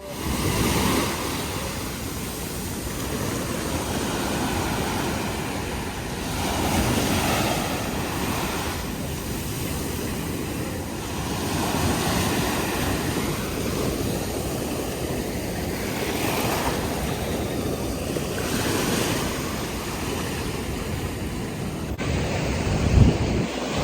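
Ocean surf washing in and out, swelling and easing every few seconds, with wind noise on the microphone. A short knock near the end.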